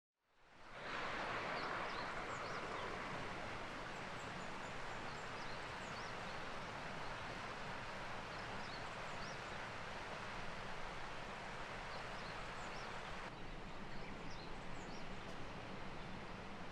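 Outdoor ambience: a steady rushing hiss with many small, high bird chirps scattered over it.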